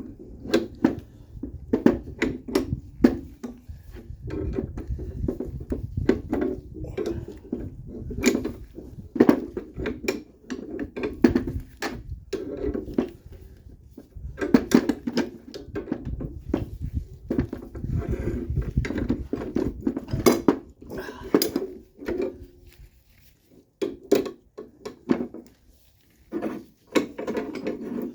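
Wrenches cranking the threaded rods of two screw-type coil spring compressors on a car strut: a busy run of metallic clicks and clinks, with a couple of short pauses in the last third.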